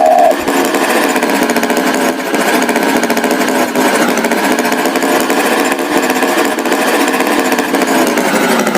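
Animated tractor's engine sound effect running steadily with a fast, rattling chug.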